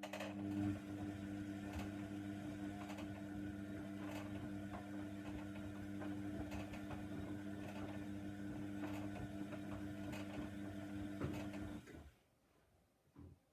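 Hoover Nextra washer dryer humming steadily with light clicks and rattles for about twelve seconds, then stopping suddenly.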